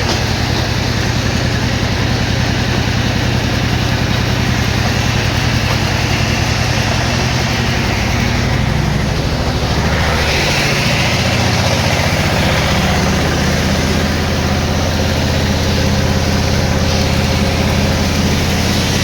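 An engine running steadily, its note shifting about halfway through.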